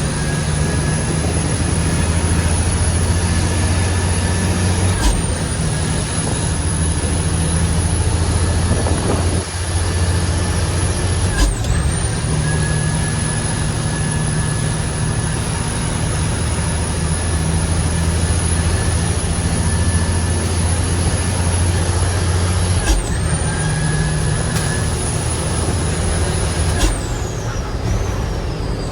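Heavy diesel truck engine pulling under load, with a high turbocharger whistle over the engine note. The whistle and the engine drop briefly three times, as at gear changes, and then wind down near the end as the throttle is let off.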